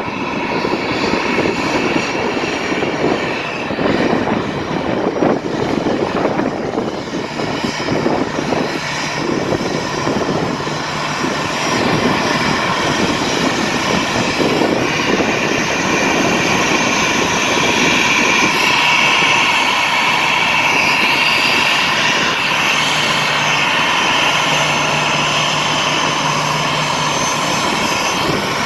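Boeing 737 jet engines running loud: a steady high whine over a rushing noise that flutters. The whine and overall level grow louder a little before the middle.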